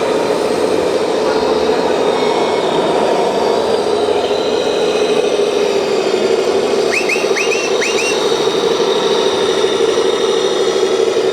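Small electric motor and gearing of a 1:14 scale RC construction model running with a steady hum. Four short rising chirps come about seven to eight seconds in.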